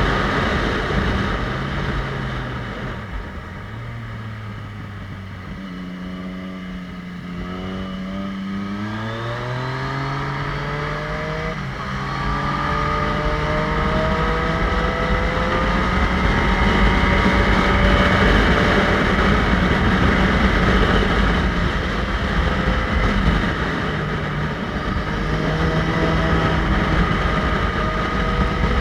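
Motorcycle engine heard from onboard, easing off and then pulling hard again. Its pitch drops for a few seconds, climbs steeply with a gear change, keeps rising slowly under load, dips briefly and rises again near the end, with wind rush over the microphone.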